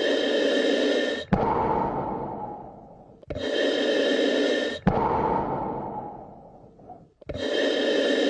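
Slow, deep human breathing, in and out, recorded close up. The cycle repeats about every four seconds: a short, even breath that stops abruptly with a faint click, then a longer breath that fades away.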